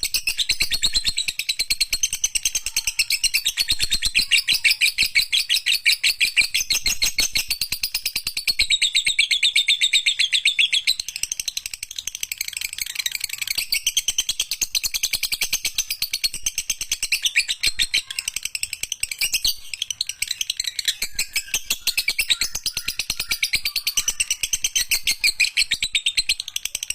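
Lovebird singing a long, unbroken high-pitched chatter of very rapid notes, the 'ekek panjang' long trill used as a training song for other lovebirds.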